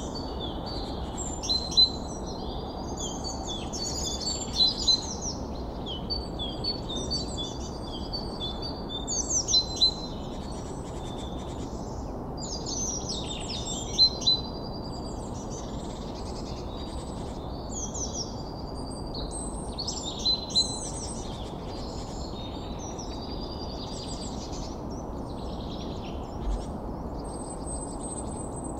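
Several small birds chirping and singing in quick, overlapping high phrases, over a steady low background hiss.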